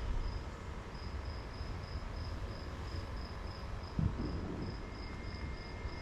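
An insect chirping steadily in a regular high-pitched pulse, about three chirps a second, over a low outdoor rumble. A brief low thump about four seconds in.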